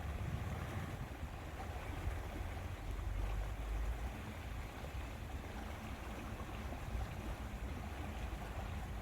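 Steady wind with lake water lapping, an even rushing noise with a deep, fluttering rumble underneath.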